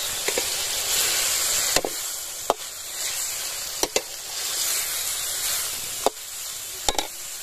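Chicken pieces with tomatoes and green chillies sizzling as they fry in a large metal pot, stirred with a metal ladle that clinks sharply against the pot about six times.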